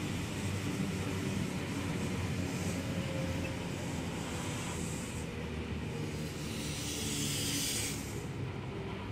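Eight-car S set electric suburban train running, a steady rumble, with a burst of hissing about seven seconds in.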